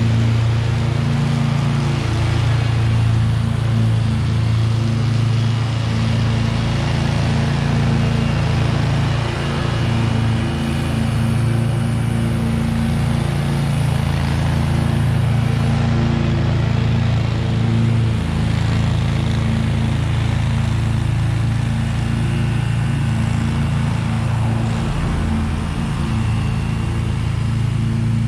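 Husqvarna V554 zero-turn stand-on mower running steadily while mowing, its engine holding a constant low drone with a few brief wavers.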